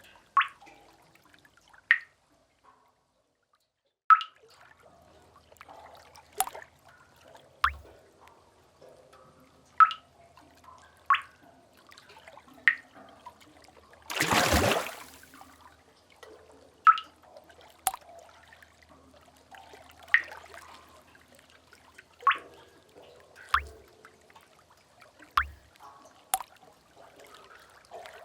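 Water drops falling in a sea cave, single sharp plinks every second or two at varying pitches. About halfway through, a brief rush of water swells up and dies away within about a second.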